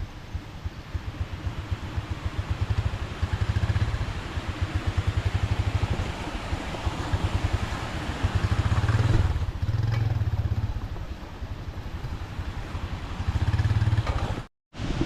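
Motor vehicle engine running with a rapid, even firing beat that swells and fades several times as it works over rough ground, with a rushing noise over it. The sound cuts out for a moment near the end.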